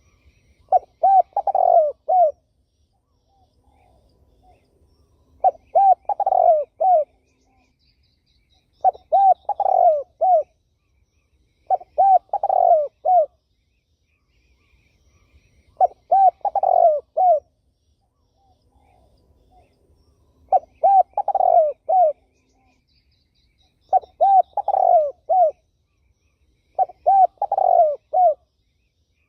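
Turtle dove cooing: a phrase of three or four low coos, repeated about every four seconds, eight times in all. Faint high chirps from another bird sound between the phrases.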